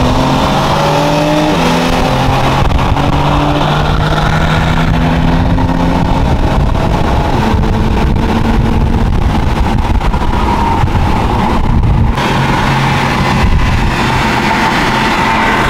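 Car engine at full throttle, heard from inside the cabin during a rolling-start drag race. It pulls hard through the gears, its pitch stepping down at each upshift, over heavy road and wind noise.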